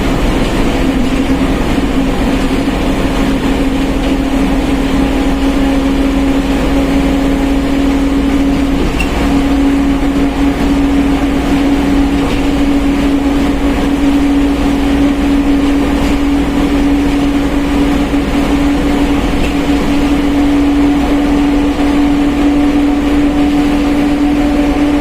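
Mercedes-Benz OF1721 BlueTec 5 bus on the move, its differential giving a steady gear whine that creeps slightly up in pitch, over a loud low engine and road rumble.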